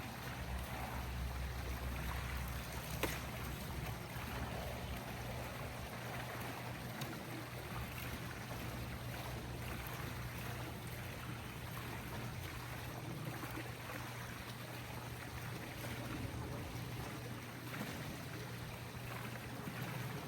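Steady flowing water over a low machine hum, with one sharp click about three seconds in.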